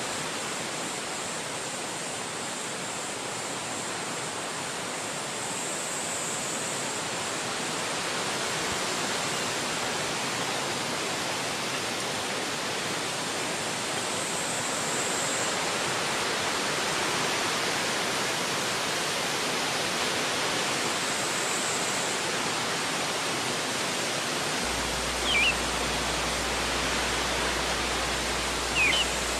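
Steady rushing of wind through forest trees, swelling slightly over the stretch. Two short high chirps sound near the end.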